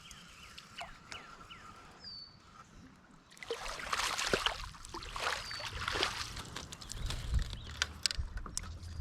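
Small birds chirping with quick falling notes, then about three and a half seconds in a sudden loud racket of rustling, cracking and splashing that lasts a few seconds, which the angler takes for deer moving through; scattered knocks near the end.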